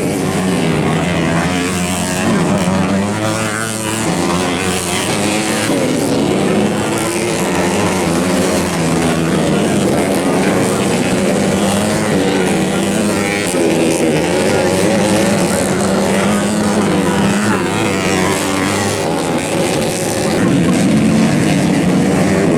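Several motocross bikes racing together, their engines revving, with the pitches rising and falling and overlapping.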